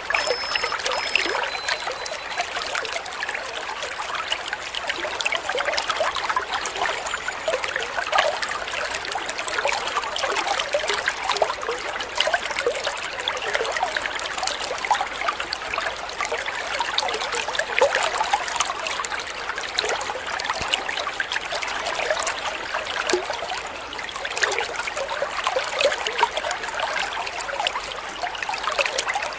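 Water trickling and splashing in a steady, continuous flow, like a small stream over stones. A couple of faint, short high notes sound in the first two seconds.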